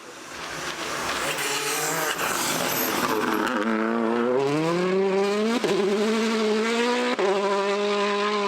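Rally car approaching and accelerating hard, growing louder. Its engine note climbs steadily, broken twice by quick gear changes in the second half.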